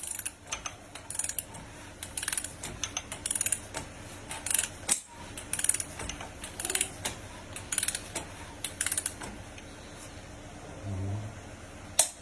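Ratchet wrench clicking in repeated bursts as the Mercedes CDI 313 diesel engine's crankshaft is turned over by hand, rotated a turn or two to check the newly fitted timing chain. A sharper single click near the end.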